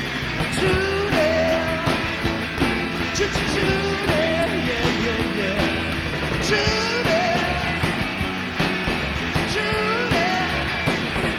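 Rock band playing an instrumental passage: drums and guitars under a bending lead melody line.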